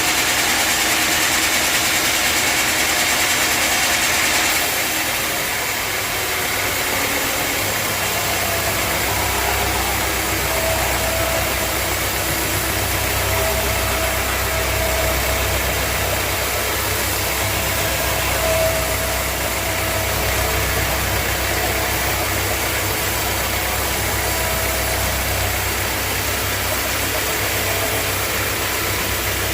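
Sawmill machinery running: a high-pitched noise stops about four seconds in, and a steady low engine-like hum comes in about eight seconds in and runs on.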